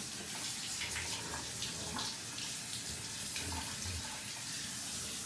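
Water running steadily from a tap into a bathtub, splashing over a dog being washed.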